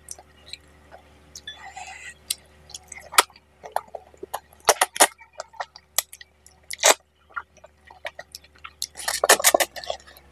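Close-miked mouth sounds of eating fish head curry and rice by hand: wet chewing and lip smacks in irregular bursts, busiest about five seconds in, around seven seconds and again near the end, over a faint steady hum.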